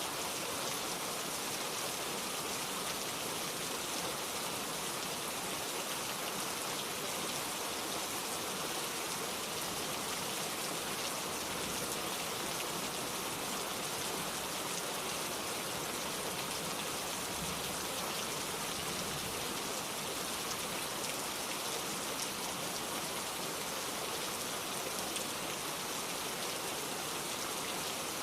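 Steady rainfall, with many fine drops pattering on a surface, holding even throughout.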